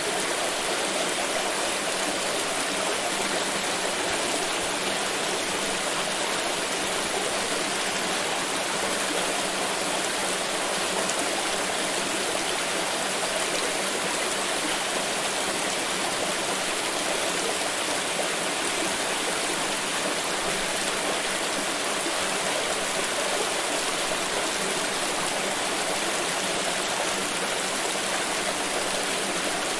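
Water pouring in a steady, unbroken rush that does not change.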